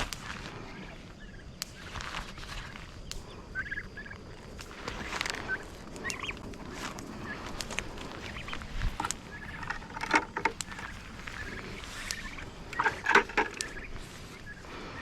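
Turkeys calling with short, scattered gobbles and yelps, the loudest burst about thirteen seconds in.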